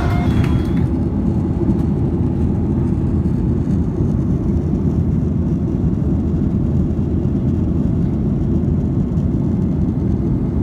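Boeing 737's jet engines during takeoff: a steady, deep roar with no change in pitch.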